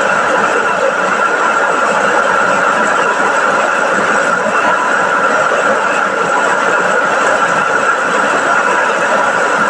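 Chao Phayu small rice milling machine running steadily while milling rice, a constant loud mechanical whirr with no change.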